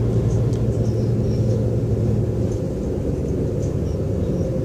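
O-Train diesel railcar running, heard from inside the car: a steady low rumble of engine and wheels. A low drone in it eases off about halfway through, and there are faint light rattling ticks.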